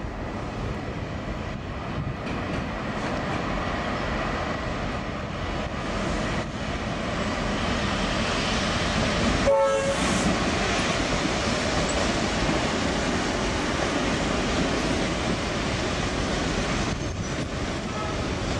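A V/Line diesel-hauled passenger train running past on the tracks, its noise growing louder as it draws level, with a short horn toot about halfway through.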